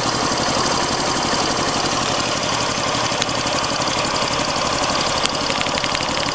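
Vehicle engine idling with a little puffing sound in its rhythm, whose cause the owner cannot pin down and wonders may be a vacuum leak. A fast, light ticking joins in about five seconds in.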